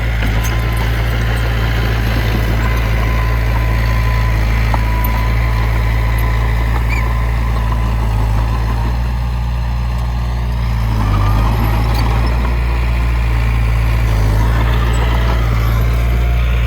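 Heavy diesel engine of earthmoving machinery running steadily with a deep, even drone; it eases off a little past the middle and picks up again about eleven seconds in.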